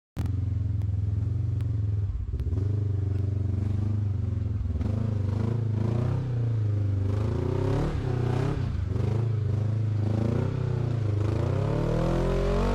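Off-road rig's engine running hard and revving, its pitch rising and falling again and again and climbing steeply near the end.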